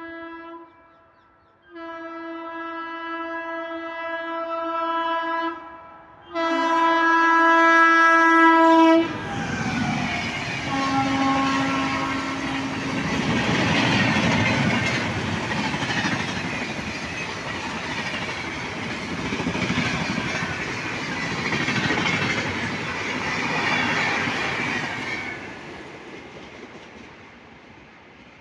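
Express train locomotive horn sounding three long blasts as the train approaches, the third the loudest, then a shorter, lower blast once the locomotive has passed. The passenger coaches then rush past at speed with a loud rumble and wheel clatter on the rails, fading away near the end.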